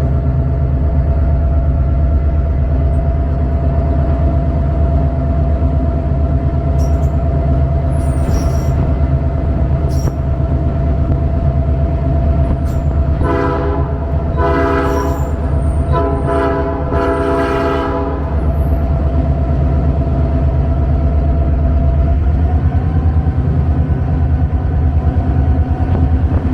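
Inside the cab of a GP38-2 diesel locomotive: its EMD 16-645 two-stroke diesel runs steadily, and about halfway through the air horn sounds four blasts, long, long, short, long, the standard grade-crossing signal.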